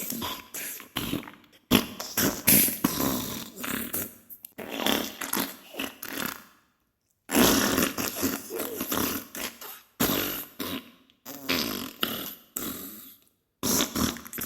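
Diarrhea sound effect: a string of wet, sputtering farts in irregular bursts, broken by a few short silences.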